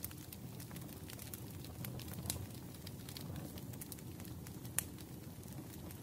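Wood fire crackling in a fireplace: a steady low rumble of flames with scattered snaps and pops, one sharper pop near the end.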